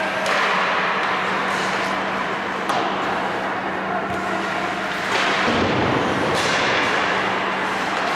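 Ice hockey play: a steady wash of rink noise broken by a few sharp clacks and thuds of sticks and puck, over a steady low hum.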